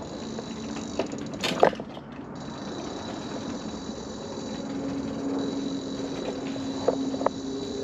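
Electric mobility scooter humming steadily as it rolls along a wooden boardwalk, with a few sharp knocks from the deck boards under the wheels. The loudest knock comes about one and a half seconds in, and two more come near the end.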